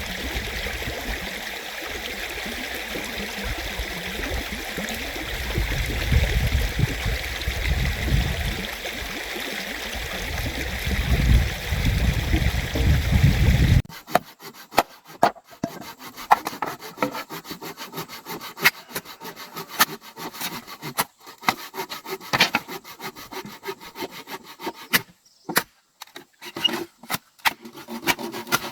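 Running stream water for about the first half, then an abrupt cut to a hand tool sawing and rasping at wood, in a quick, irregular run of scraping strokes and clicks.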